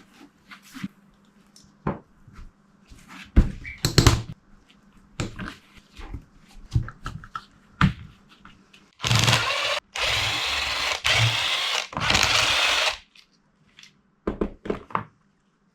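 Small metal tools and parts clicking and knocking on a workbench, then a handheld power tool running in four short bursts about nine seconds in, during work on a two-stroke cylinder's power valve.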